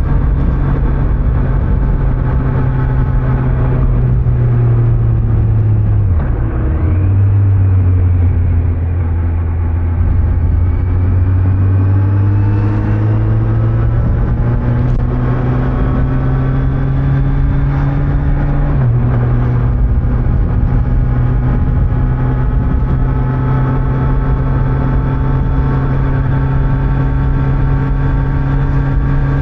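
Kawasaki Z900's 948 cc inline-four running on stock exhaust while riding, with wind and road noise. The engine note drops sharply about six seconds in, as at an upshift, then climbs slowly under light acceleration. It steps up again a little past halfway and holds steady.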